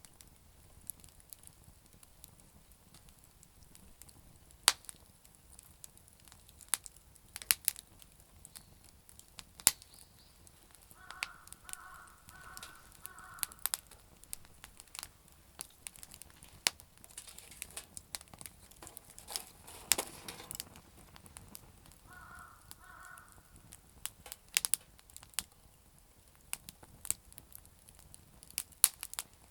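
Campfire of damp firewood crackling, with sharp irregular snaps and pops. A bird calls in a short series of about four calls a third of the way in and twice more later.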